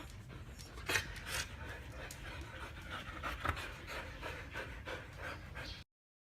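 Siberian husky panting in quick, even breaths, with one sharper sound about a second in. The sound cuts off abruptly just before the end.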